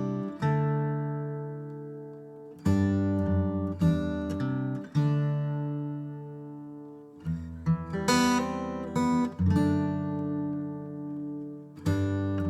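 Background music: acoustic guitar picking and strumming chords, each struck sharply and left to ring out and fade.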